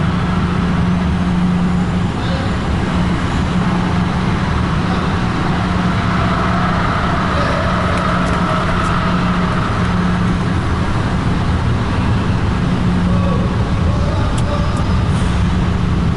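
Truck's diesel engine running steadily at low revs as the lorry is slowly manoeuvred, its back end being swung round into position.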